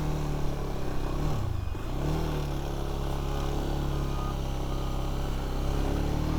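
Rieju motorcycle engine running under way as it is ridden. Its note drops briefly about a second and a half in, as the throttle is eased, then picks back up and holds steady.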